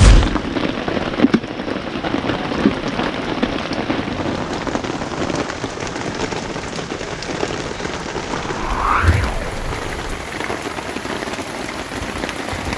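Steady rain falling on a tarp shelter, with a few brief knocks.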